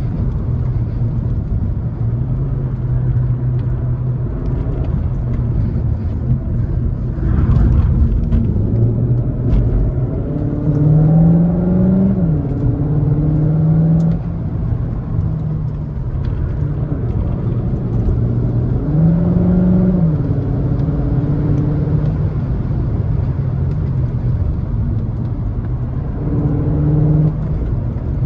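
Cupra Formentor e-Hybrid 245's turbocharged four-cylinder petrol engine pulling under hard driving. Its revs climb and then drop sharply at gear changes, about eleven seconds in and again near twenty seconds.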